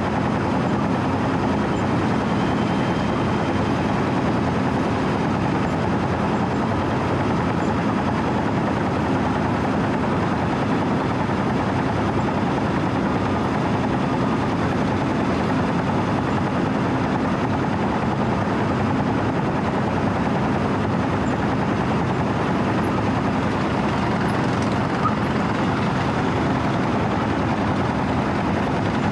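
Wirtgen W 120 CFi cold milling machine's diesel engine running steadily as the machine travels, with a steady hum under it. The drum is not yet cutting.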